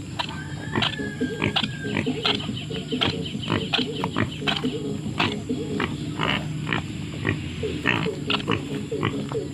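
Wild pigs, a sow with her piglets, grunting amid many short, sharp, irregular sounds. About a second in, a thin high whistle lasts about a second.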